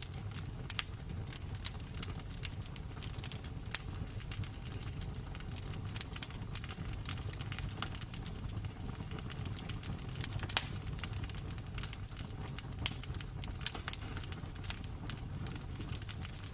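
Wood fire crackling in a fireplace: irregular sharp snaps and pops over a steady low rumble, with two louder pops about ten and thirteen seconds in.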